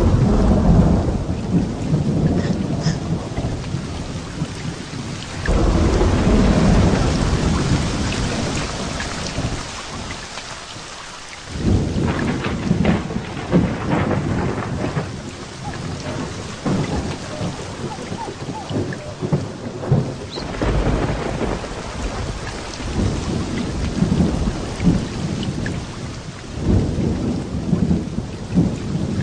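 Heavy rain falling steadily, with repeated rolls of thunder: deep rumbles, some breaking in suddenly (about five seconds in, about twelve seconds in and about twenty seconds in) and crackling before dying away.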